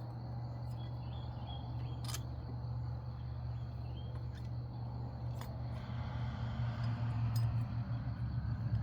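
A few sharp clicks from a metal spring clip being worked into a car's front brake assembly, over a steady low hum.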